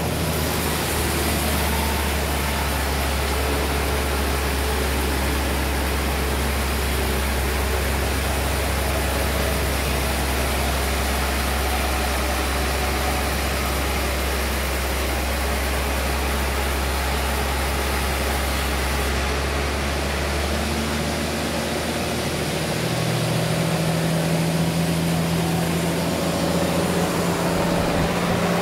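Sawmill engine running steadily. A little past twenty seconds the deep hum drops away and a higher, slightly louder engine note takes over.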